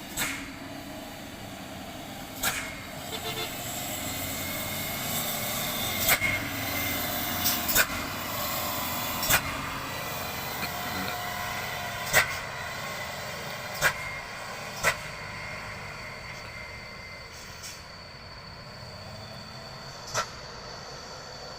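Overloaded dump truck creeping down a steep descent with its brakes on: steady vehicle noise with faint brake squeal, broken by about ten short, sharp bursts at irregular intervals. The squeal fades in the last third.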